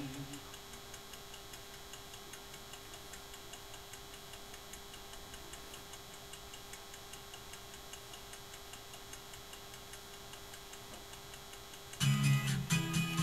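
Faint, evenly spaced ticking of a clock over a low steady hum, after music fades out at the start; a strummed acoustic guitar comes in near the end.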